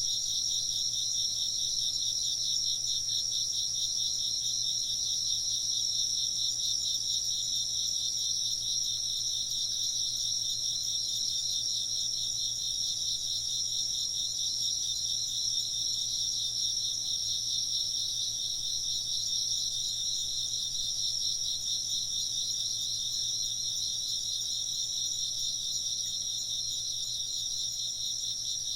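A chorus of crickets chirping steadily in fast, even pulses at two high pitches.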